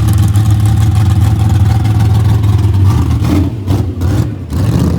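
Car engine running loud and steady with a deep, even note, then wavering and dipping briefly about three to four and a half seconds in.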